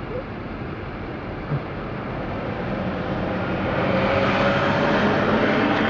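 A heavy tow truck's engine running hard under load while it winches an overturned truck, the drone swelling over the last few seconds.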